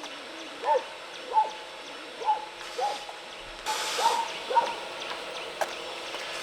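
An animal calling repeatedly: about six short, pitched calls, roughly half a second to a second apart.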